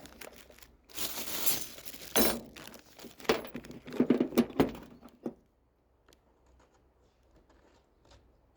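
Rustling and handling of small metal parts and tools, with clinks and several sharp knocks, lasting about four seconds.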